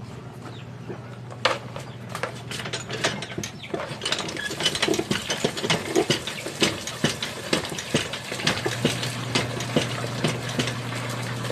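Harvested kahang-kahang seashells clicking and clattering against each other as they are handled, sparse at first and turning into a dense rattle about four seconds in. A steady low hum runs underneath.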